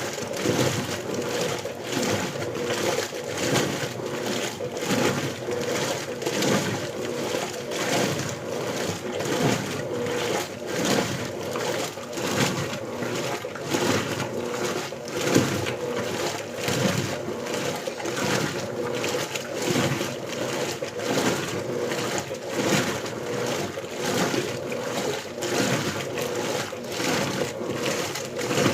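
Electrolux LBU15 top-loading washing machine agitating a small load on turbo agitation: water sloshing and churning in even, repeating swishes as the agitator turns back and forth.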